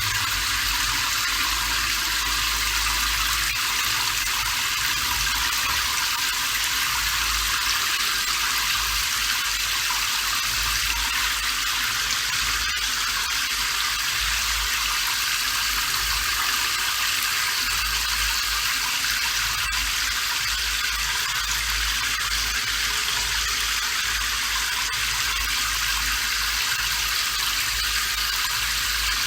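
Steady rain falling, an even hiss of water that does not let up.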